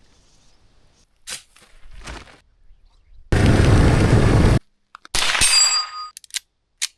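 A loud burst of rushing noise lasting about a second, then a sharp metallic clang that rings on with several high tones and fades out.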